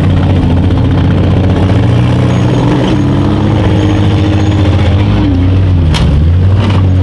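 Engines of small demolition derby cars running loud and revving, their pitch rising and falling. Two sharp bangs near the end.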